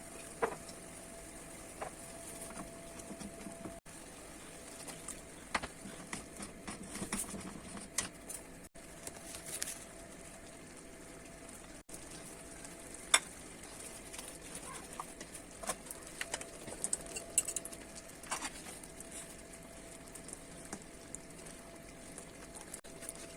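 Scattered light clicks and knocks of cookware and utensils being handled, over a faint steady hum.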